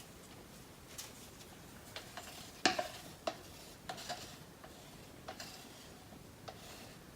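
Scattered light clicks and knocks of cups and paint containers being handled while acrylic pour paint is layered into a large cup, about half a dozen in all, the loudest about two and a half seconds in.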